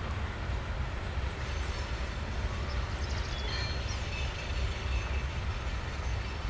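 Union Pacific freight train rolling past while climbing a grade, a steady deep rumble with no breaks.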